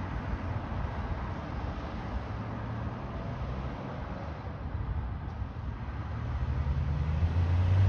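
Low engine hum over steady outdoor background noise, growing louder over the last couple of seconds.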